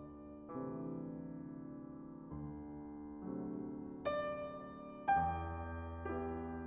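Slow, gentle solo piano music, single notes and chords struck about once a second and left to ring.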